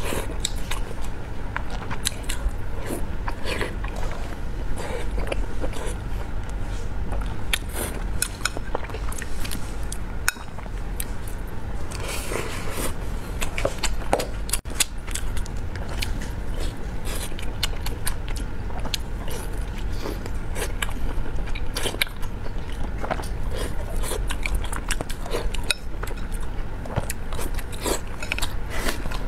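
Close-miked eating of braised pork belly and rice: chewing and wet mouth sounds with many short, sharp clicks throughout, over a steady low hum.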